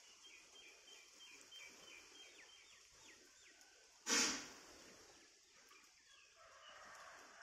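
Faint outdoor ambience: a small bird chirping in quick repeated high notes for the first few seconds over a steady high hiss, broken about four seconds in by one short, loud rush of noise.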